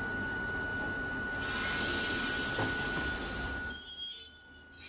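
Hakone Tozan Railway electric train at a station: a steady hum, with a hiss swelling up about a second and a half in. Near the end comes a brief high squeal, the loudest part, after which the sound drops away suddenly.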